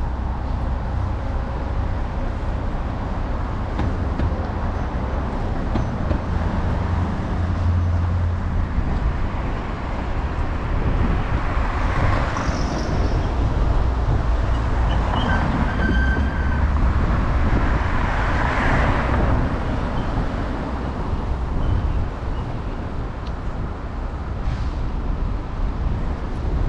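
Street traffic and road noise heard from a handlebar-mounted camera on a moving electric scooter, with a steady low rumble of wind and ride vibration. The noise swells twice near the middle.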